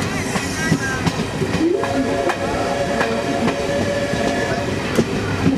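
Passenger train running on the line: a steady rumble of wheels on rails with scattered clicks. A held tone sounds for about two seconds near the middle.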